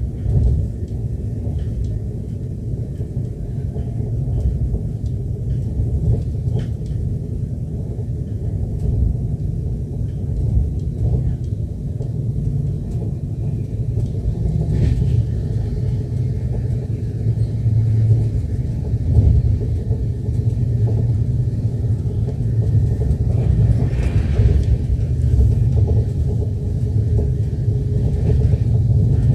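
Passenger train running along the track, heard as a steady, deep rumble.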